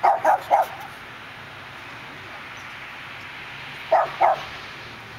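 A dog barking: three quick barks at the start and two more about four seconds in.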